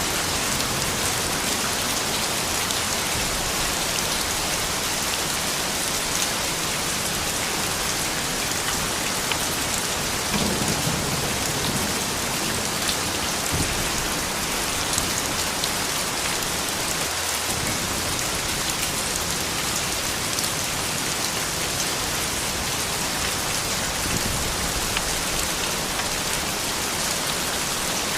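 Steady rain falling on surfaces: a dense, even patter of many drops.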